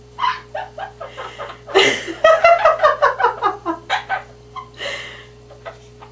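Quaker parrot chattering in rapid strings of short, squeaky calls, with a louder harsh squawk-like burst about two seconds in.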